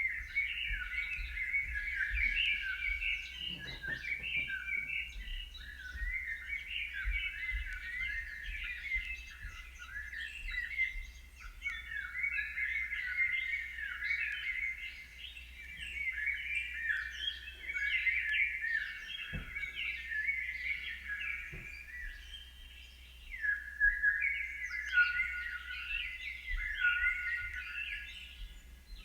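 Many small birds chirping together in a dense, unbroken chorus of short chirps, with a low rumble underneath.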